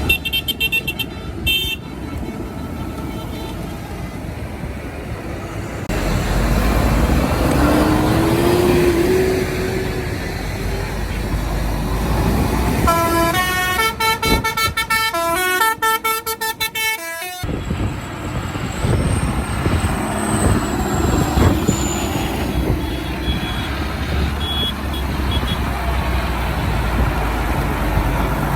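Tractor engines running as tractors pass, with horns tooting. Midway, a horn or loudspeaker plays a quick run of stepped notes for a few seconds.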